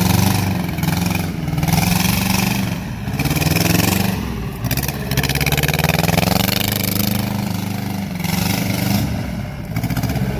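Tata Ace engine of a homemade small tractor running, its speed rising and falling.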